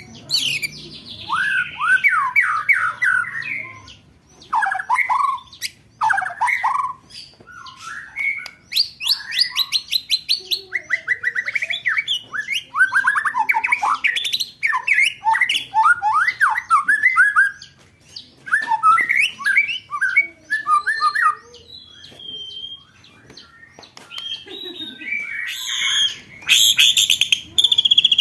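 Songbird masteran calls: fast rolling trills and harsh chattering runs of rapidly repeated notes, many sliding downward in pitch, in bursts of a second or two with short pauses between.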